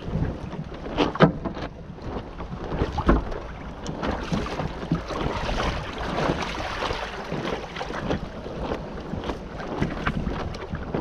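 Water lapping and slapping against a sailing canoe's hull, with irregular knocks and splashes, the loudest about a second in and about three seconds in, over wind on the microphone.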